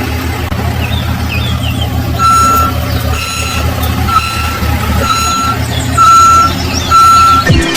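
A vehicle's reversing alarm beeping about once a second, six single-pitched beeps starting about two seconds in, over a steady low engine rumble.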